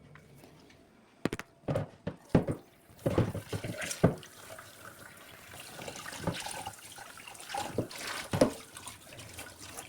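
Tap water running into a sink, with several sharp knocks and clatters of things being handled in it during the first few seconds, then uneven splashing.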